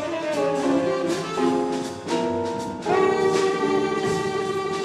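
Jazz band playing, led by a horn that moves through a few held notes and then sustains a long one from about three seconds in.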